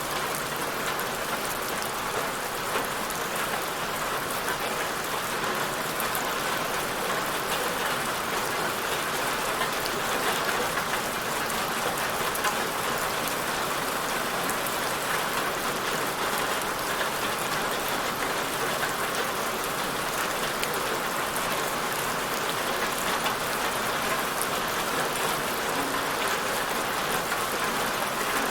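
Steady rain falling and pattering on a surface, with fine drop hits and no change in intensity.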